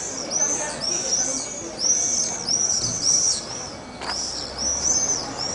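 Small birds chirping steadily in short, high rising-and-falling notes, about three a second, with one sharp knock about four seconds in.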